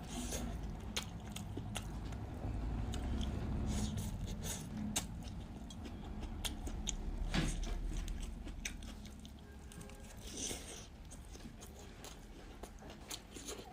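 A person chewing and biting food close to the microphone, with many scattered sharp clicks and mouth smacks; it gets somewhat quieter after about nine seconds.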